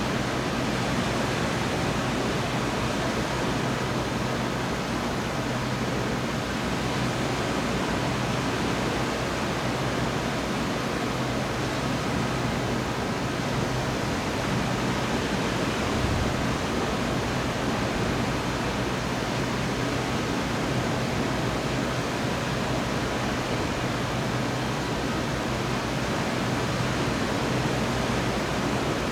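Steady, even rushing noise, like downpour or surf, with a faint low hum underneath; no thunderclaps.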